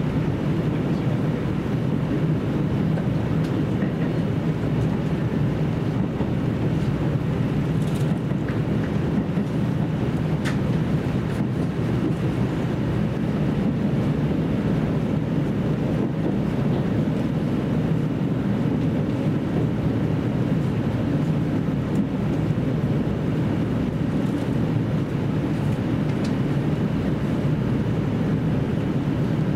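Steady running noise inside a JR Central KiHa 75 diesel railcar under way: a low, even drone of the engine and wheels on the rails, with a couple of faint ticks about eight and ten seconds in.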